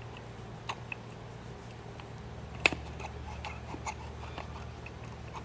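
Light clicks and taps of an SU H1 carburetor's parts being handled as its piston is checked for catching, with one sharper click a little under three seconds in, over a low steady hum.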